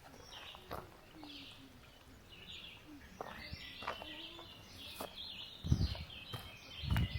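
Small birds singing in woodland, with a walker's footsteps on the path growing louder toward the end.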